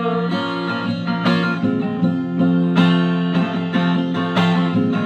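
Instrumental guitar music, a run of strummed and plucked chords, with no singing.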